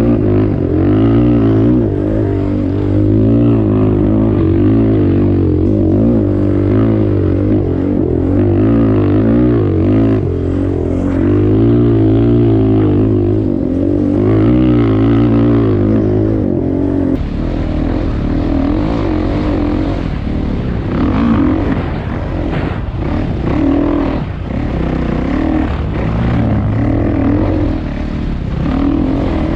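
Off-road vehicle's single-cylinder four-stroke engine running under way, its pitch rising and falling with the throttle. About seventeen seconds in it drops lower and turns choppier.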